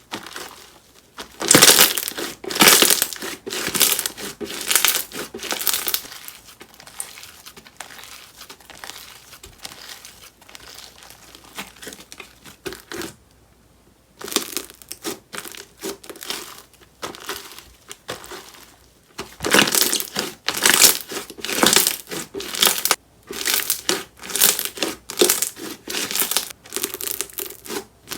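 Slime being squeezed, poked and stretched by hand, giving dense clusters of crackling, popping clicks, with a brief pause about halfway through.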